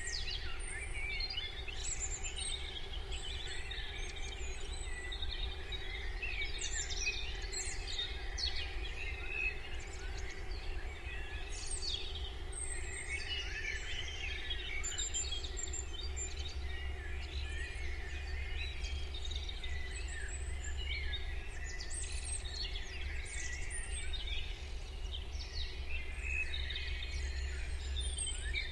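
Morning chorus of many small birds chirping and singing over one another, dense quick chirps and trills with no pause, over a steady low rumble.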